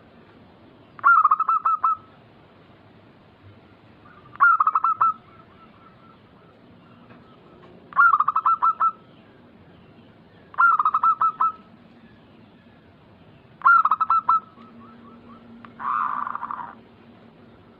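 Zebra dove (perkutut) cooing: five phrases of quick, stuttering coo notes, each about a second long and about three seconds apart. Near the end comes a rougher, noisier call.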